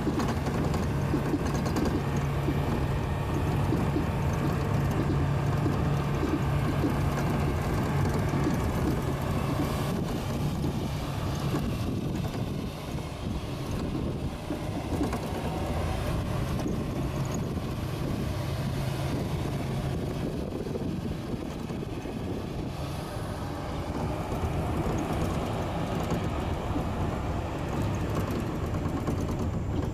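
Heavy log truck's diesel engine running steadily under load, with a low drone that fades about halfway through while the rumble goes on.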